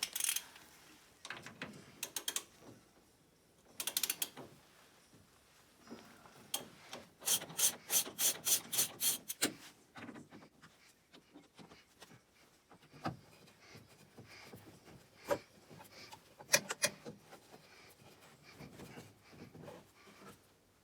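Ratchet wrench clicking in short runs, about three or four clicks a second, the longest run of about nine clicks in the middle, with a few separate sharp metal knocks and clinks of tools and parts.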